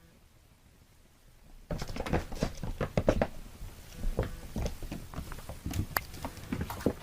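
Kittens scampering and scrabbling: a rapid, irregular patter of small taps and scuffles that starts abruptly about two seconds in, after near silence.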